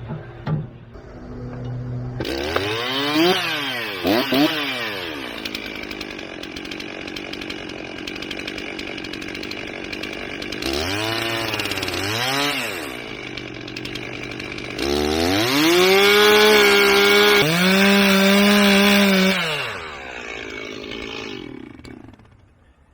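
Gas chainsaw idling, blipped up to speed twice a few seconds in and twice again about halfway, then held at high revs for several seconds. It drops back to idle and is shut off near the end.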